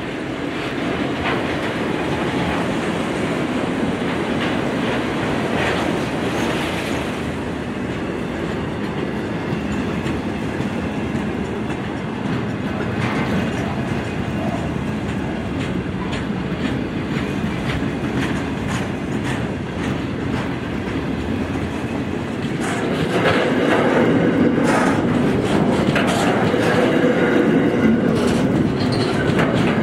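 Freight train wagons, car carriers and then container wagons, rolling slowly past, their steel wheels clacking over the rail joints. The sound grows louder near the end as the container wagons pass close by.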